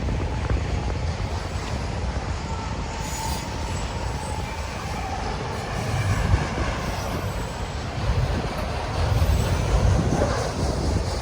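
A train's railcars rolling past on the rails with a steady, uneven rumble, and wind buffeting the microphone.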